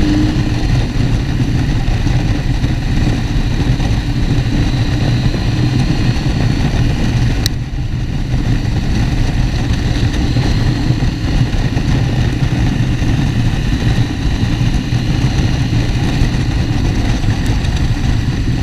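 Motorcycle engine running steadily under way, heard from a helmet-mounted camera together with a steady rush of wind and road noise. About seven and a half seconds in, the sound dips briefly with a click.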